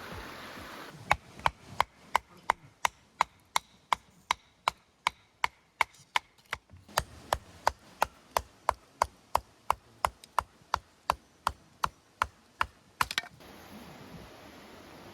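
Firewood being chopped: sharp wooden knocks, about three a second, for some twelve seconds, with a brief pause about halfway through.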